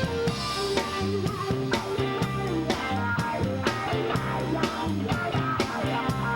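A band playing rock-and-roll with electric guitar, bass and a drum kit keeping a steady beat.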